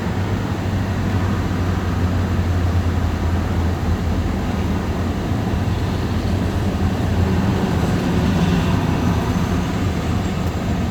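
Union Pacific mixed freight train rolling slowly past as it slows down, with the steady low drone of its two rear diesel locomotives over the rumble of wheels on rail.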